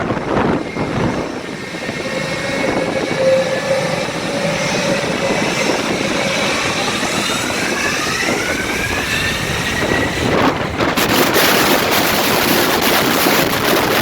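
Jet airliner's engines spooling up at the runway end, a whine that climbs in pitch. About three-quarters of the way in a loud rush of noise sets in as the jet blast hits the microphone.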